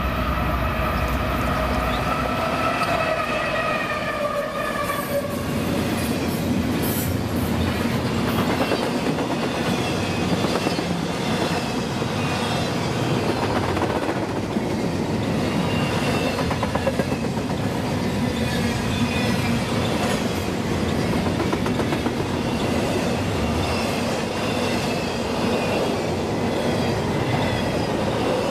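A double-stack container freight train passing close by, led by two Canadian Pacific diesel locomotives. Their sound drops in pitch as they go by in the first few seconds. Then the stack cars roll past with wheels clacking on the rails and high squealing tones that come and go.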